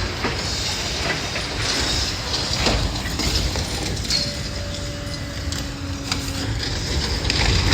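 Building demolition machinery tearing into a school building: a steady low engine rumble under the crunch, rattle and clatter of breaking debris. A faint steady whine comes in about four seconds in.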